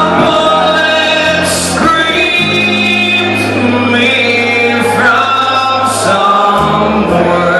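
Live song performance: a man singing held notes over guitar and a steady bass line.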